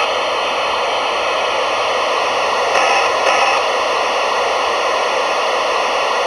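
Simulated Westinghouse air brake pump from the steam sound card of a Gauge 1 Märklin Gt2 4/4 Mallet model locomotive, playing through its small speaker: a steady hiss with faint slow pulses as the pump runs.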